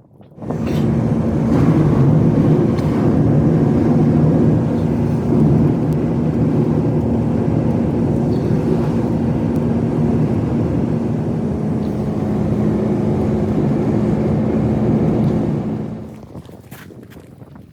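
A motor engine running steadily with a low even hum, starting abruptly and fading out near the end.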